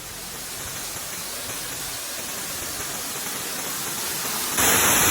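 Steady rushing of water, like falls or a fast stream. It grows slowly louder, then suddenly jumps louder and brighter near the end.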